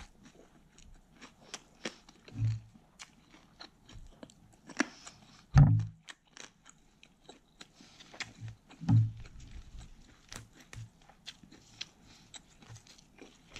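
A person chewing a lettuce wrap of grilled pork belly: many small crisp, wet crunching clicks from the fresh lettuce leaf. A few short low sounds come in between, the loudest about halfway through.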